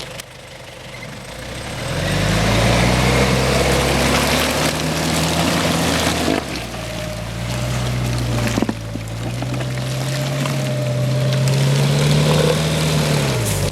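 Off-road SUV engine revving hard and held at high revs while its wheels spin and churn through wet mud and water, the revs climbing about two seconds in and dropping away near the end. A vehicle stuck to its belly in a bog, trying to rock or back itself out.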